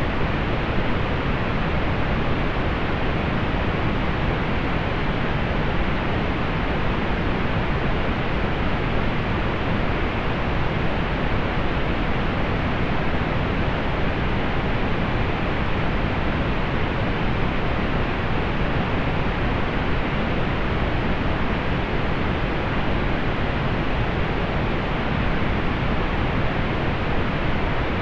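Steady synthetic pink noise, an even hiss that stays unchanged throughout, with its high end softened above about 4 kHz.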